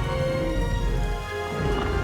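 Dramatic orchestral film score with held notes over a low rumbling bed of sound effects, dipping briefly about halfway through.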